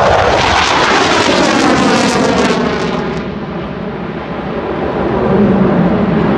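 Aircraft making a loud low pass overhead: the engine noise swells suddenly at the start, then sweeps down in pitch and fades as it passes, and swells again near the end.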